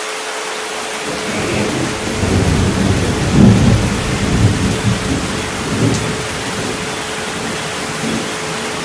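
Rolling thunder over steady rain: a low rumble builds about a second in, is loudest around three and a half seconds, and fades by about seven seconds. A steady 432 Hz tone hums beneath it.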